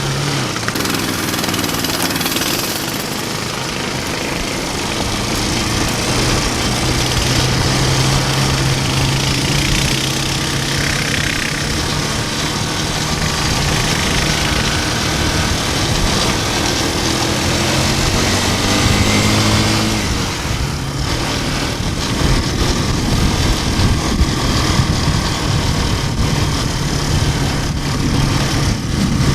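Small single-cylinder 420 engine on a mini-bike trike running under load, its note holding steady, then climbing and dropping in pitch around two-thirds of the way through as the throttle is worked, and running rougher after that.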